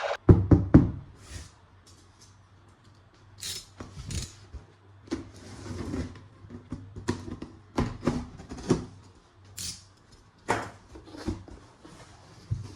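Plastic toy guns and their parts being handled and unpacked: irregular sharp clicks and knocks with short scrapes, a cluster of loud knocks right at the start, over a faint low hum.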